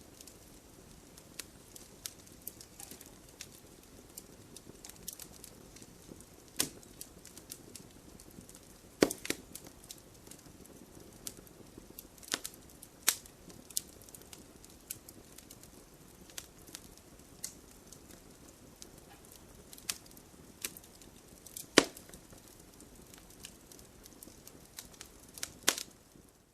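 Campfire of burning wood crackling, with a low steady hiss under irregular sharp pops and snaps. The loudest pops come about 9, 13 and 22 seconds in.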